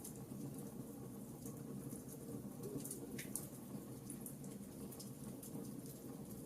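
Wood fire crackling in a fireplace: a steady low rumble of the flames with scattered small pops and snaps, and one sharper crack about three seconds in.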